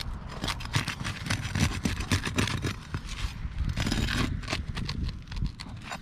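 Roof shingles being pried up and unsealed by hand in a repairability test, with a dense, irregular run of crackling and scraping. The attempt to repair the shingle fails.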